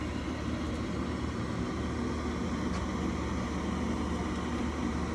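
York 80% gas furnace running while its gas pressure is checked: a steady low hum with an even rush of air from the burners and blower.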